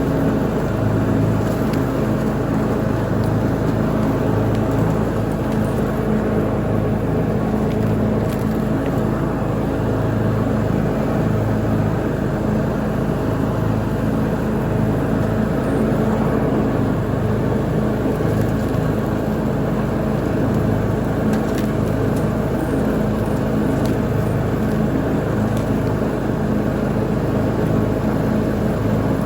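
Lawn mower engine running steadily at a constant speed while mowing grass.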